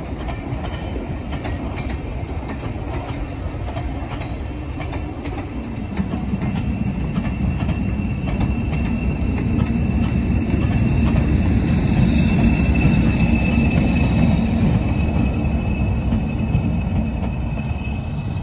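Passenger train coaches rolling past: a steady rumble and clatter of wheels on the rails that grows louder about six seconds in, with a faint high steady whine in the second half.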